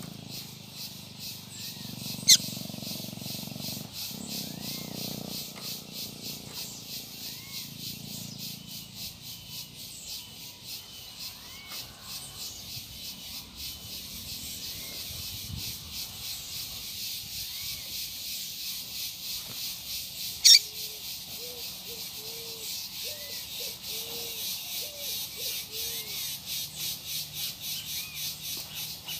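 Small birds give short chirping calls, with two sharp, loud calls about two seconds in and about twenty seconds in, over a steady, fast-pulsing insect buzz. A quick run of short, low notes comes about three-quarters of the way through.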